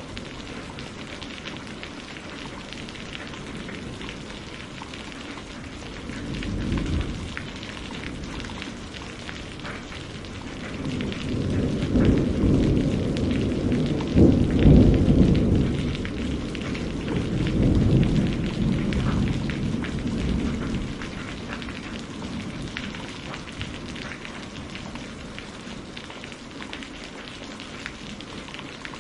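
Steady rain pattering on a greenhouse roof, with thunder: a short low rumble about seven seconds in, then a longer roll from about eleven to twenty-one seconds, loudest around fifteen seconds.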